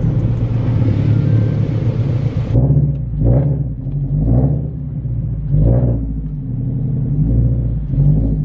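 Scion FR-S flat-four engine through a straight-piped exhaust, a loud low rumble that swells several times as the engine is revved or accelerates.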